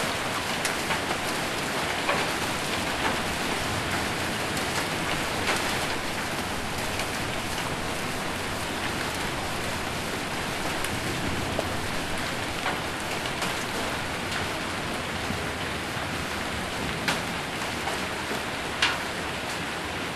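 Heavy rain mixed with hail drumming on a roof: a steady hiss of rain with scattered sharper hailstone ticks, a few standing out louder.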